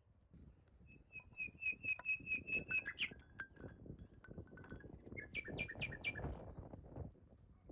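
A bird calling in quick runs of short repeated high notes, about four a second, with a second, lower series of notes between the runs. Irregular crunching and rustling sounds underneath, heaviest in the second half.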